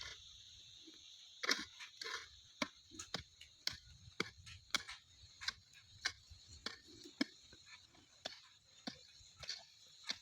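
A run of irregular, short, sharp clicks, roughly two a second, over a faint steady high hiss.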